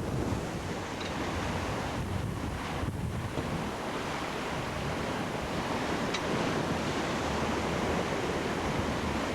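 Wind buffeting the microphone over the steady rush of water along the hull of a sailing yacht under way at speed.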